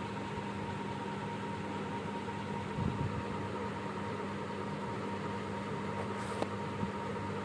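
Steady machine hum with a constant low drone and a faint higher whine, like a running fan or motor, with a short click about six and a half seconds in.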